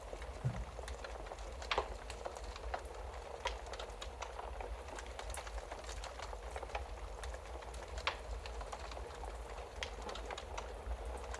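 Wood fire crackling in a fireplace: irregular sharp pops and snaps over a steady hiss and low rumble, with a few louder pops, the first about two seconds in.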